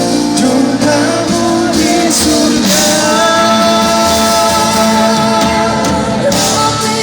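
Live band music with sung vocals holding long, slightly wavering notes over the accompaniment.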